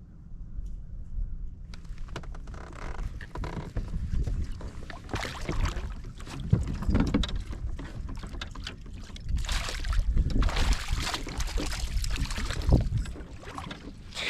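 Wind buffeting the microphone on a fishing kayak on open water, with water noise coming in uneven gusts from about two seconds in.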